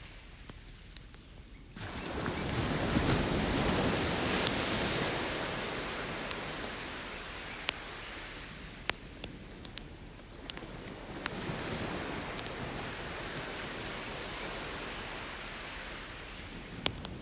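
Ocean waves washing onto the beach, one surge building about two seconds in and slowly receding, then a smaller one later, with a few sharp pops from a crackling campfire.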